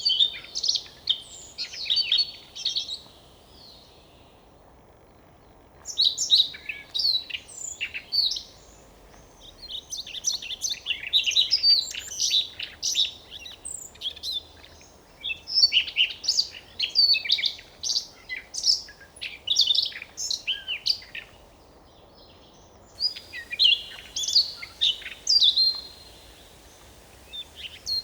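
Siberian rubythroat singing: long phrases of rapid, varied high chirps and whistled notes, broken by short pauses a few seconds in and again a few seconds before the end.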